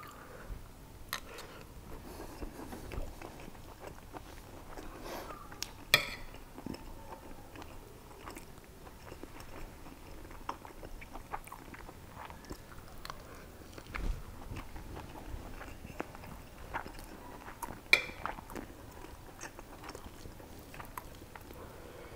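Close-up chewing of mouthfuls of mutton biryani, with small clicks of a spoon and fork against the plate. Two sharper clinks stand out, about six seconds in and again near eighteen seconds.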